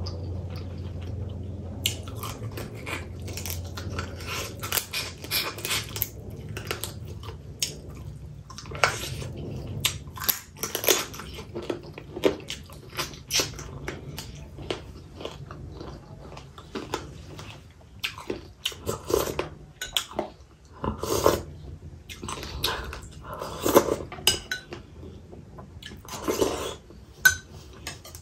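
Close-up mouth sounds of a person chewing food: irregular wet smacks and clicks, with a low steady hum underneath during the first half.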